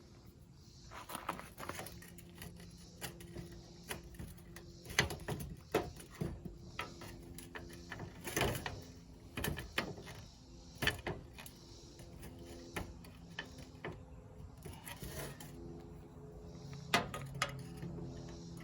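Scattered light clicks and knocks of small metal hardware being handled and fitted: washers, a spring and a nut going onto a bolt of a headlight mount.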